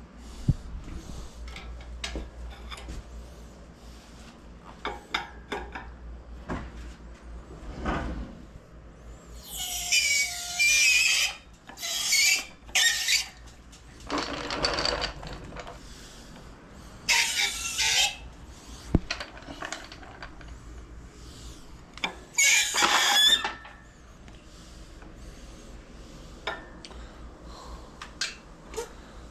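Metal scraping and squealing as a pulled engine is worked off the hoist onto a cart: five loud bursts of about a second each in the middle, among scattered clanks and clicks.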